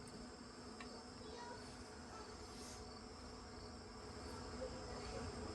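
Faint steady high-pitched insect drone in the background, with no other distinct event.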